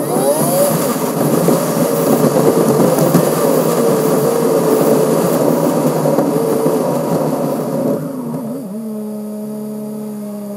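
Car engine and road noise picked up at the front grill: the engine revs up at the start and pulls steadily while driving. For the last two seconds or so it settles to a steady idle.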